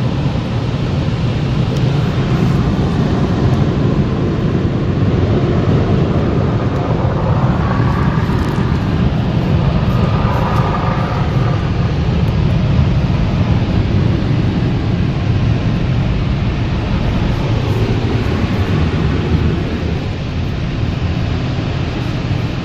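Automatic tunnel car wash equipment working over the car, heard from inside it as a loud, steady rushing noise.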